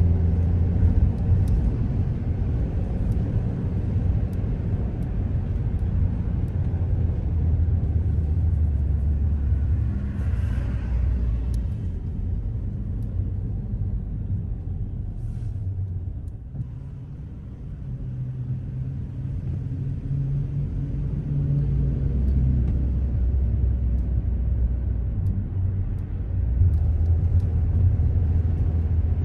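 Car driving on city streets: a steady low rumble of engine and road noise that eases off a little past halfway, then builds again as the car picks up speed.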